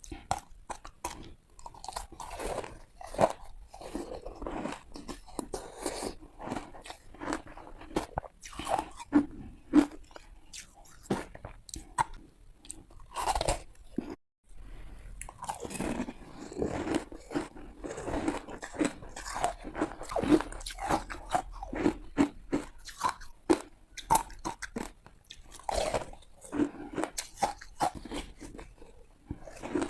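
Ice being bitten and crunched close to the microphone: a quick run of sharp, cracking bites with chewing between them, broken by a brief silence about fourteen seconds in.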